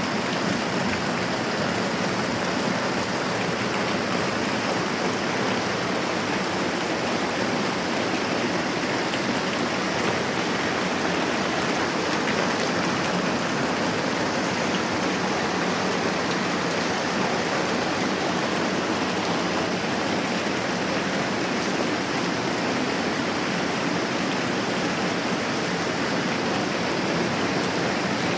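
Moderate rain falling steadily, a dense even hiss that neither builds nor fades.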